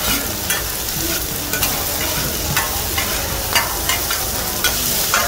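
Crispy omelettes sizzling in oil on a large flat iron griddle, with repeated sharp scrapes and taps of a metal spatula against the griddle surface every half second or so.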